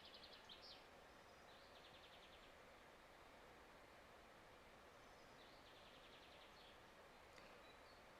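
Near silence outdoors, with faint rapid trilling bird calls three times: once at the start, once about two seconds in, and once past the middle.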